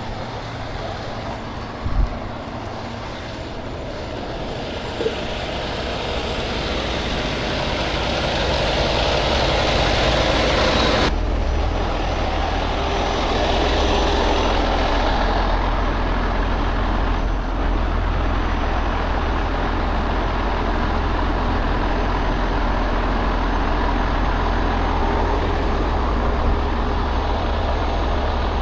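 A heavy truck engine running, with a steady low rumble that comes in suddenly about a third of the way through and holds.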